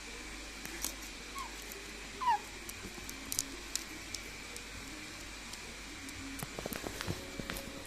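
Caique parrot giving two short falling squeaks, the second louder, amid scattered small clicks that gather into a quick cluster near the end.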